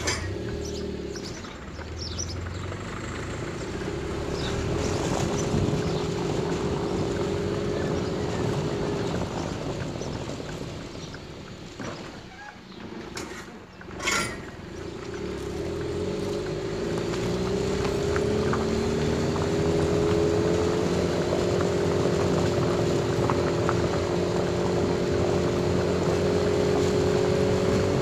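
Car engine running as the car drives along a concrete road, heard from inside the car. The level drops briefly about halfway through, a sharp click follows, and then the engine note climbs as the car speeds up.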